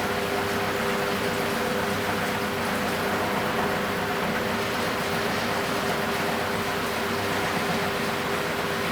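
Philco Bendix W84RX washing machine running: a steady watery rush with a constant hum.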